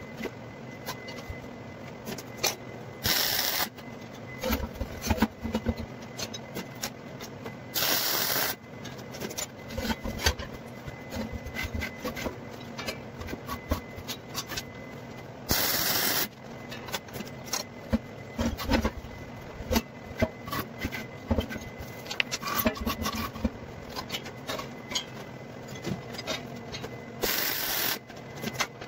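Four short bursts of electric arc welding, each under a second, as the steel hoops of an armillary sphere are tacked in place. Scraping and clicking of metal being handled comes in between.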